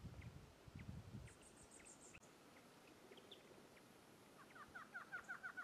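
Faint bird calls: scattered short chirps, a brief high twitter about a second and a half in, and a rapid run of short notes starting near the end. A low rumble in the first second.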